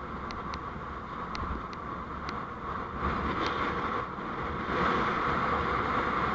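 Steady road and engine noise of a vehicle driving, with a few faint short ticks in the first few seconds.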